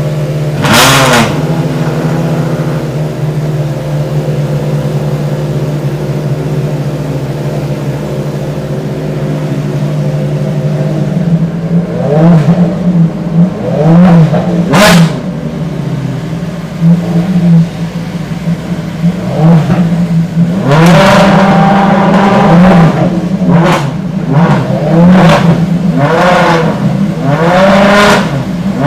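Ferrari V12 track car engine idling steadily, blipped to a quick rev about a second in and a few more times around the middle, then revved hard in a rapid run of sharp blips through the last third, each rising and dropping back to idle.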